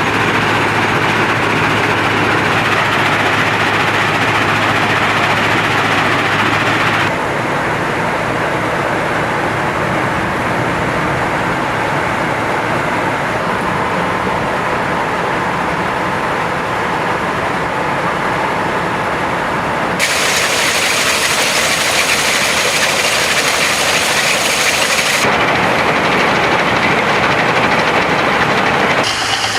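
Railway ballast cleaning machine at work: loud, steady diesel engine and machinery noise. The sound changes abruptly three times, turning duller and then brighter again.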